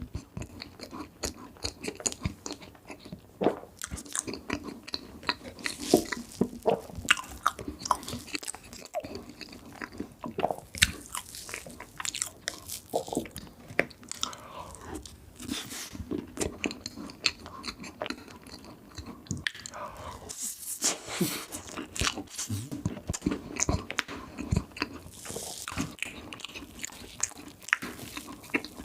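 Close-miked eating sounds: a person biting and chewing dessert, with many irregular short crunches and mouth clicks.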